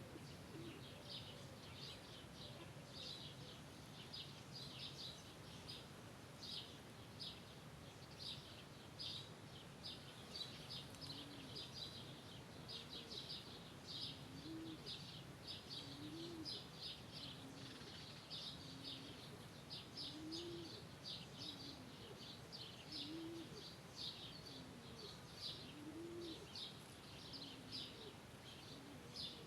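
Small birds chirping in quick, repeated short notes, with a dove cooing in low rising-and-falling calls every couple of seconds from about a third of the way in. Faint.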